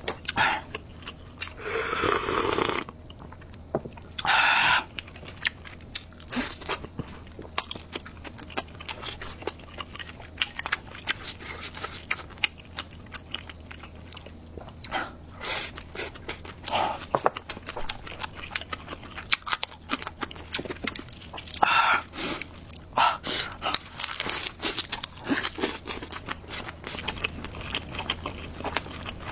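Close-up eating sounds: chewing and crunching mouthfuls of home-cooked Korean food, with many short sharp clicks and a few louder noisy bursts.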